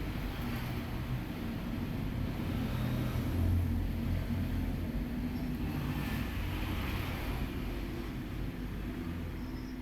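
Steady low rumble of background noise, with a faint hiss that swells a little about six to seven seconds in.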